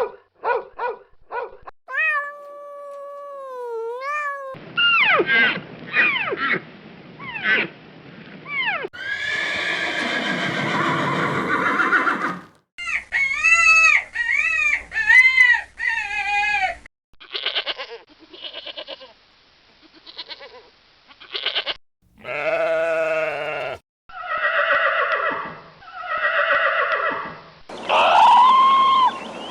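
A run of different farm animal calls, one short clip after another with abrupt cuts between them: pitched cries and bleat-like calls, some repeated in quick series.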